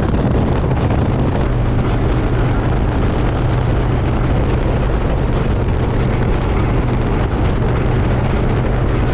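Harley-Davidson V-twin motorcycle engine running steadily at cruising speed on the highway, its low drone mixed with heavy wind rush over the microphone.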